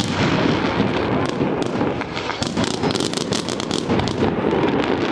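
Fireworks display going off in quick succession: a dense, continuous run of bangs and crackles with no let-up.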